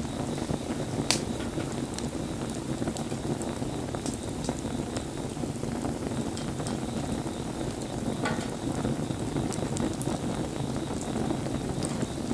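Wood bonfire burning: a steady low rush of flame with scattered crackles and pops, one sharper pop about a second in.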